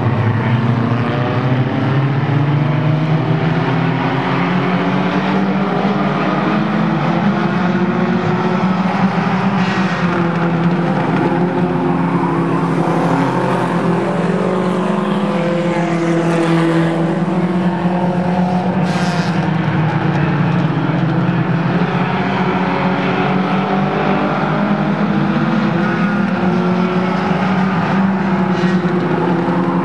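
Several race car engines running together at speed around a track, their overlapping engine notes rising and falling as the cars accelerate and lift.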